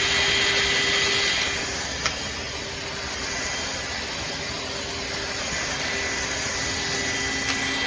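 Shark HydroVac MessMaster cordless wet-dry vacuum running with a steady high-pitched whine over its suction noise, the motor just reaching full speed at the start. The sound drops a little about a second and a half in, and there is a single click about two seconds in.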